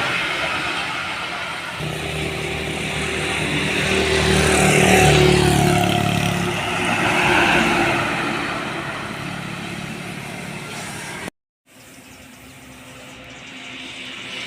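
A heavy road vehicle, a truck or bus, driving past. Its engine drone and tyre noise swell to a peak about five seconds in and then fade. After a sudden brief cut near the end, another vehicle can be heard approaching.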